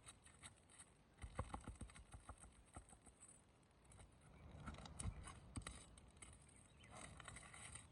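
Faint scattered clicks, taps and scrapes of a tool working at a roofing nail under an asphalt shingle, in two short clusters about a second in and again around five seconds in.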